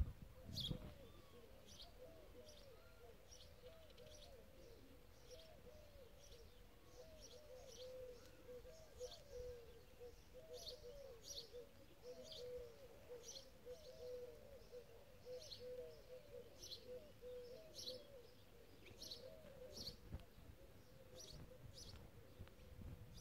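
Faint birds calling: scattered short high chirps over a dense, continuous run of short low calls. A brief low bump comes about a second in.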